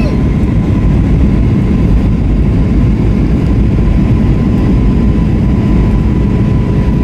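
Steady roar of an Airbus A321's jet engines and airflow heard inside the passenger cabin in flight, with a faint steady whine running through it.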